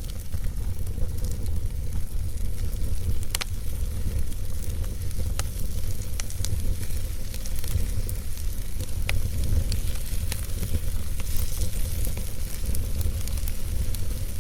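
Logs burning in a fireplace: a steady low rumble and hiss of the flames, with scattered sharp crackles and pops from the wood.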